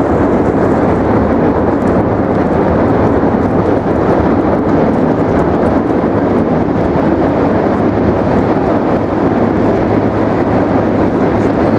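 Steady, loud low rumble of outdoor noise that keeps on without a break.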